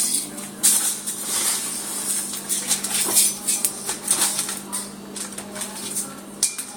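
Dry bird seed being scooped and poured into a feeding bowl, a run of irregular rustling, rattling strokes.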